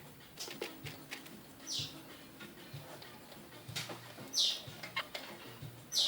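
Zebra finches calling: three short, high calls that sweep downward in pitch, spaced about two seconds apart, among scattered small clicks.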